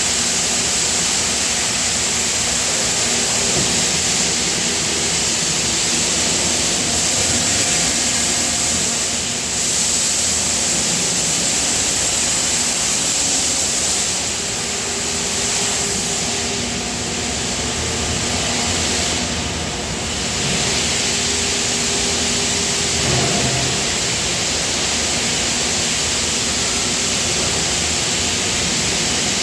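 Loud, steady industrial machinery noise: a constant hiss with faint hums underneath, dipping slightly twice in the middle.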